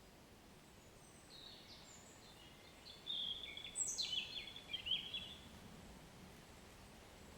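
A songbird sings a few seconds of quick chirps and trills, with a fast falling note near the middle, over a faint steady hiss of gentle rain.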